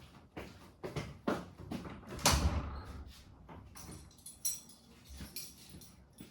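A series of knocks and clicks, with a louder scraping rush about two seconds in.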